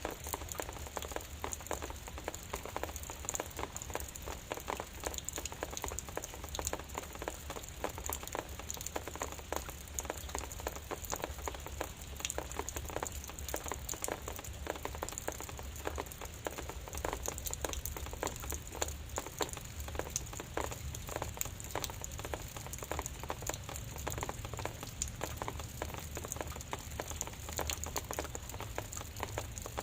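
Light drizzle falling, a steady dense patter of many small drops with a low steady hum underneath.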